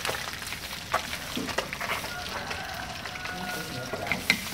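Fish frying in hot oil in a wok, sizzling with scattered pops.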